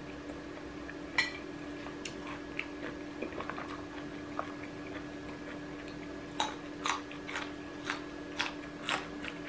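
A person biting and chewing a crisp raw green vegetable, crunching about twice a second through the second half. Earlier, a single sharp clink of a fork against a plate about a second in.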